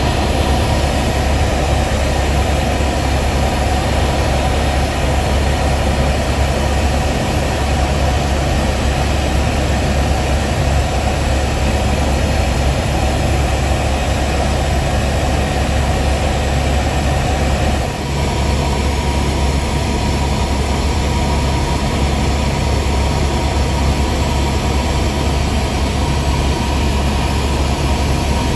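Helicopter cabin noise in flight: a loud, steady drone of rotor and turbine, with a brief dip in level about two-thirds of the way through.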